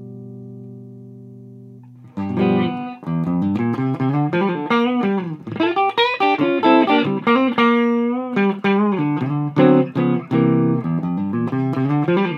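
Gibson Les Paul played through the clean channel of a Mesa Boogie Dual Rectifier at 100 watts with diode rectification, into a Marshall 1960A 4x12 cabinet. A held chord rings and slowly fades, then about two seconds in a lively phrase of picked single notes and chords begins, with a clean, bright tone.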